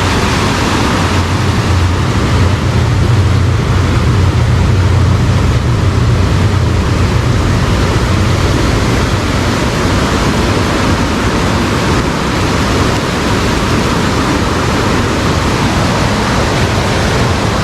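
Rain-swollen river rushing past in a strong current: a loud, steady noise of fast-flowing water, with a low rumble that is stronger in the first half.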